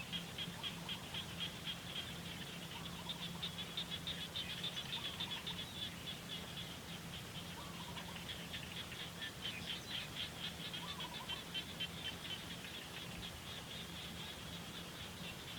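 Rapid, steady high-pitched pulsed chirping from small animals, with a few fainter short chirps lower in pitch and a steady low hum underneath.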